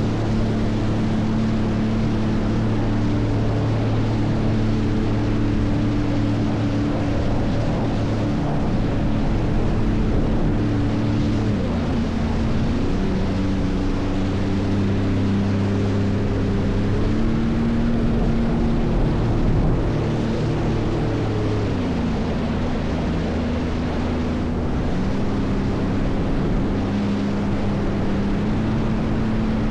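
Jet ski engine running under way, its pitch stepping up and down several times as the throttle changes, with water and wind noise.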